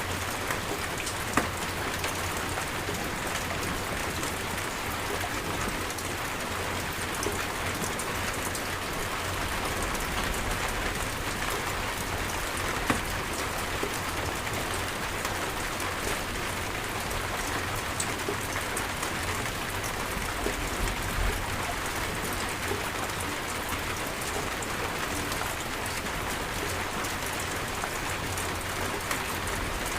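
Steady heavy rain falling and pattering on surfaces, a dense even hiss full of drops, with a few louder drip hits.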